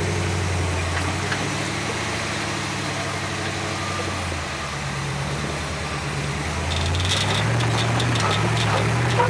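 An off-road vehicle's engine idling at low revs, its pitch dropping about halfway through and picking up again near the end.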